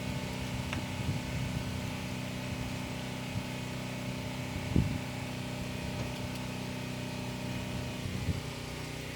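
An engine running steadily, a low hum that holds one pitch, with a single knock about five seconds in.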